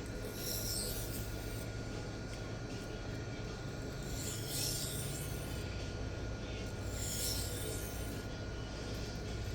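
Steel knife edge drawn in light deburring strokes across a wet 1200-grit diamond sharpening plate: a soft, short rasping scrape every two to three seconds over a steady low hum.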